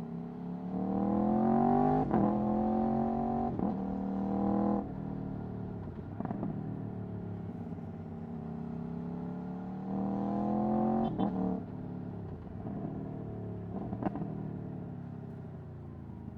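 Aprilia Tuono V4 1100's V4 engine through an Akrapovic Racing exhaust, pulling hard twice with revs climbing and brief breaks in the note at gear changes, then dropping back when the throttle closes. Between the two pulls it runs at lower, steadier revs.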